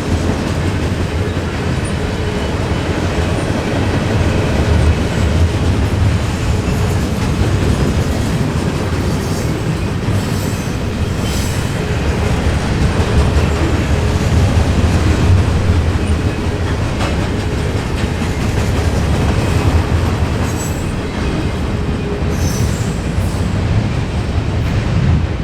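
Freight train of gondola cars rolling past: a steady, loud rumble of steel wheels on rail, with brief high wheel squeals here and there.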